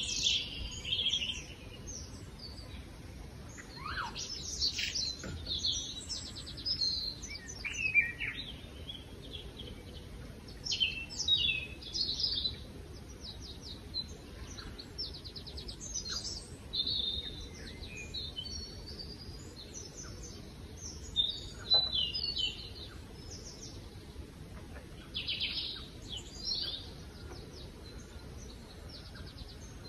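Birds chirping and singing: repeated short chirps, quick trills and a few falling whistles, on and off throughout over a low steady background noise.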